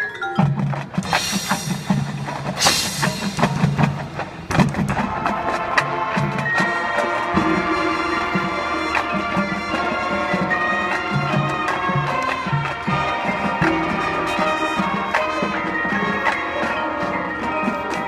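Marching band playing its field show. Drums and two loud crashes come in the first few seconds, then from about four and a half seconds in the band holds sustained chords over continuing percussion.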